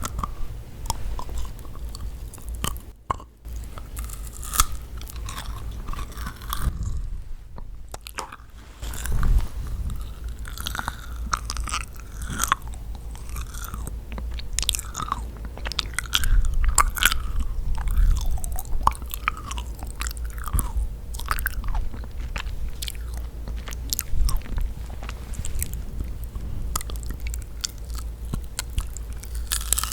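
Close-miked eating of yakgwa, the sticky Korean fried honey cookie: irregular bites and chewing with many sharp, wet mouth clicks, easing briefly about three seconds in and again around seven to eight seconds.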